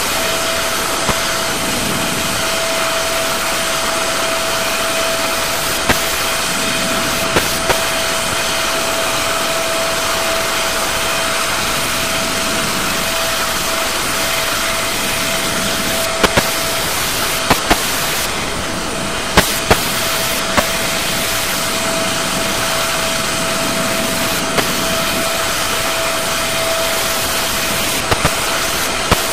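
Aerospatiale AS365N1 Dauphin helicopter running steadily: a constant turbine and rotor rush with a steady whine through it. Scattered sharp clicks from glitches in the old recording's audio cut in now and then.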